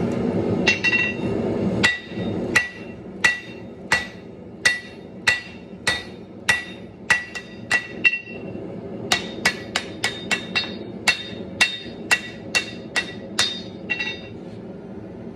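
Hand hammer blows on a hot damascus steel billet over an anvil, each strike ringing. The blows come about one and a half a second at first, then quicker, about three a second, from a little past halfway. A steady rushing noise sits under the first couple of seconds.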